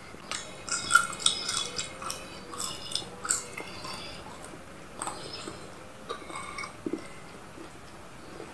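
A person chewing a mouthful of food with smacking lips. The smacking is busiest for the first three seconds or so, then fades to a few scattered clicks.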